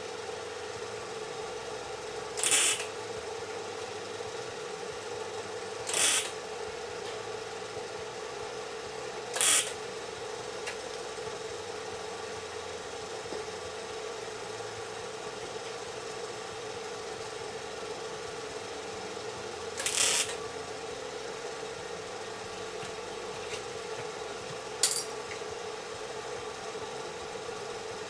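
Five short bursts from a workshop tool, each about half a second, spaced a few seconds apart over a steady hum.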